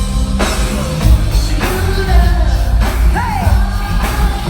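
Live R&B concert music played loud through a hall's sound system, with heavy bass and a singer's voice over it, including a sung slide down in pitch about three seconds in, and some yells.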